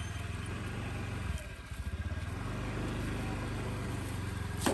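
Motorcycle engine running steadily. It eases off and runs unevenly for about a second, starting about a second and a half in, then settles again. A sharp click comes near the end.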